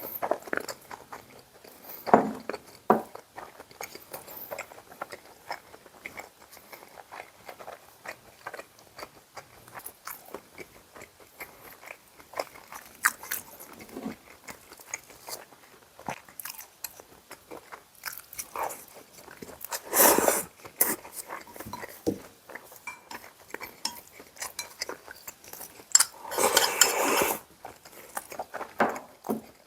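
Close-miked eating: mouth sounds of chewing and biting into pan-fried battered beef and cold noodles, many small wet clicks and smacks, with two louder, longer noisy stretches, one about two-thirds through and one near the end.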